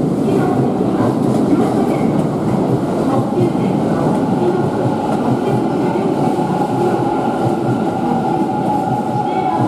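Kintetsu 80000 series Hinotori limited express pulling into the platform: a steady rumble of wheels on rail, with a thin whine that comes in about halfway through.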